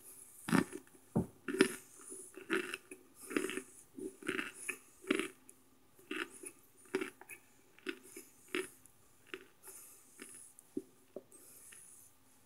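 Chewing on crunchy chunks of microwaved cornstarch: a steady run of crunches, about two a second, loudest in the first couple of seconds and growing softer toward the end.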